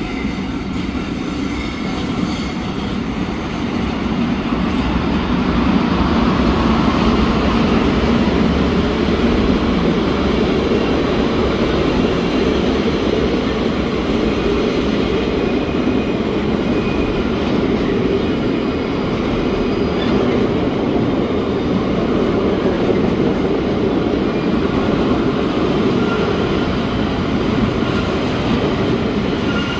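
Metre-gauge freight train of container wagons rolling past close by, hauled by two Rhaetian Railway Ge 4/4 II electric locomotives: a steady rumble and rattle of wheels on the track that grows louder a few seconds in as the wagons come alongside.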